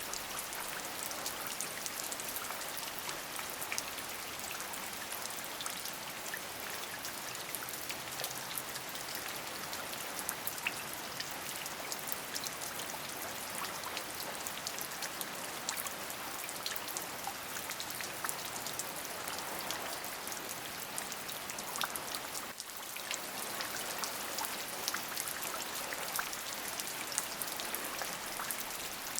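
Steady rain falling, a dense even hiss with many small drop ticks through it; the level dips briefly about three-quarters of the way through.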